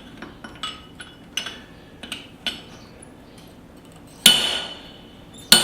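Steel on steel at the anvil as the eye of a small hammer head is hand-punched: a run of light metallic clinks, then two heavy ringing hammer blows about a second apart near the end.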